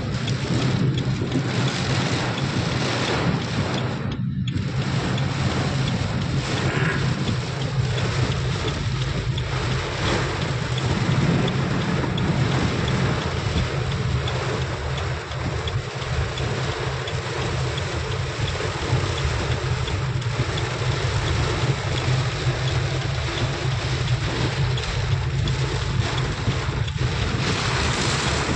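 Heavy rain falling steadily, with wind rumbling on the microphone.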